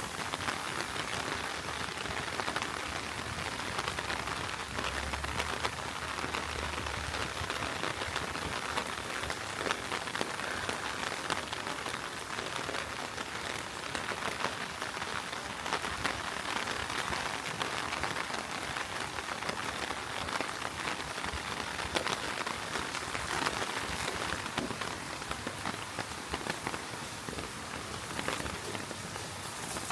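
Heavy rain falling steadily on the street: an even hiss dotted with many small drop ticks.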